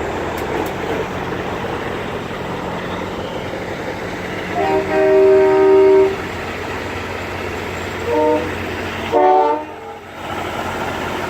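Semi-truck air horns blowing over the steady rumble of diesel engines: one long blast of about a second and a half, then two short blasts around the eight- and nine-second marks.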